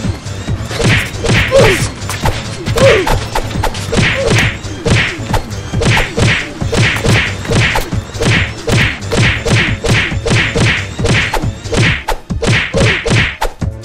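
Rapid string of punch sound effects, whacks and thuds landing about two a second, with a brief lull near the end.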